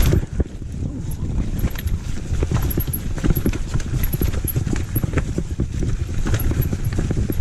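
Downhill mountain bike clattering over rough trail: a dense, irregular run of knocks and rattles under a steady low rumble.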